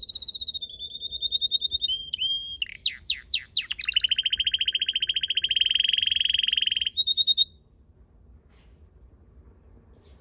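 Red canary singing: fast rolling trills and a few quick sweeping notes, then a long rapid buzzing trill that cuts off about seven seconds in, a brief final trill, then quiet.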